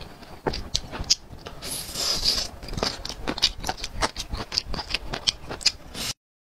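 Close-miked eating sounds: wet chewing and lip-smacking of grilled skewered squid, a quick run of sharp mouth clicks with a louder hissing stretch about two seconds in. The sound cuts off suddenly near the end.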